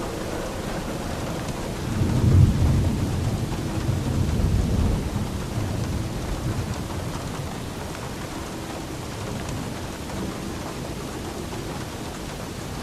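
Steady rain with a roll of thunder: a low rumble swells about two seconds in, peaks soon after, and rolls on for several seconds before fading back into the rain.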